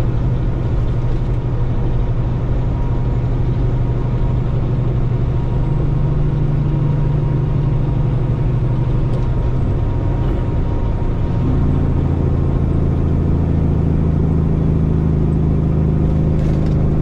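Tractor-trailer's diesel engine running steadily. Its drone shifts to a new pitch about six seconds in, then again about eleven seconds in, where it gets a little louder.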